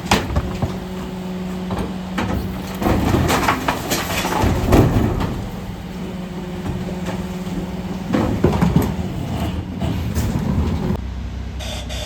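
Mercedes Econic refuse truck running with a steady hum, with loud clattering and knocks twice, about three to five seconds in and again about eight to nine seconds in. The hum's tone stops about a second before the end.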